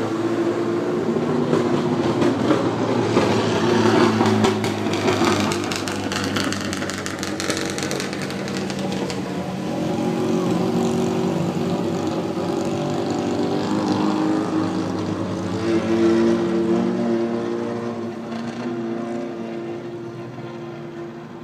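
Vintage racing car engines running and revving, with a stretch of rapid crackle in the first half, and the sound fading away near the end.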